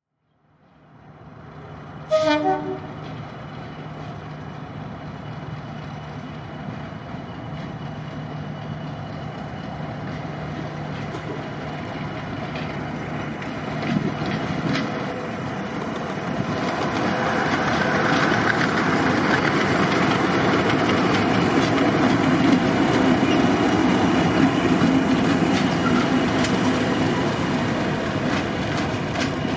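Diesel locomotive giving a short horn blast about two seconds in, then its engine running steadily while the noise of the train grows louder through the second half as it draws near.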